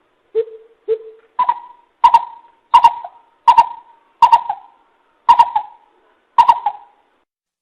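Coucal (bìm bịp) hooting: two lower hoots, then a series of seven higher, louder hoots spaced a little under a second apart, each note slightly doubled.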